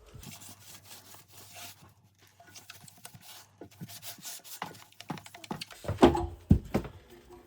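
Microfibre cloth rubbing soot and cleaner off the glass of a fireplace door in repeated wiping strokes. A few louder knocks come near the end.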